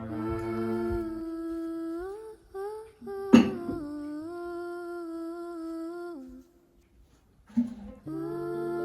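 A person humming a slow tune in long held notes with small slides between them, breaking off briefly about two seconds in and again near the end. A single sharp click about a third of the way through is the loudest sound.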